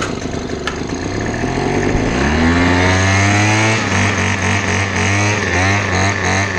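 Small lawn-equipment engine cold-starting on partial choke. It catches suddenly, picks up speed about two seconds in, then runs with its speed dipping and recovering a few times.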